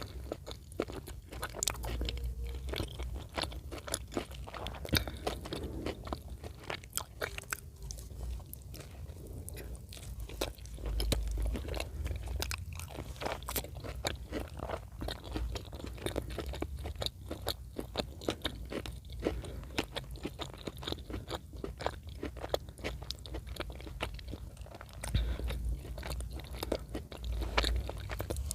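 Close-miked eating: chewing and biting with many small crunches and wet clicks of the mouth.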